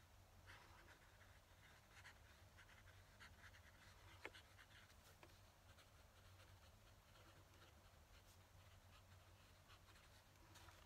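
Faint scratching of a fountain pen nib on paper in short, irregular strokes, with a single sharp tick about four seconds in, over a steady low hum.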